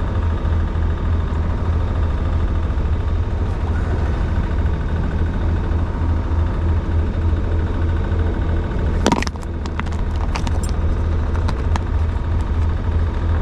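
Sailing yacht's inboard engine running steadily under way, a low pulsing hum. About nine seconds in there is one sharp knock, followed by a few light clicks.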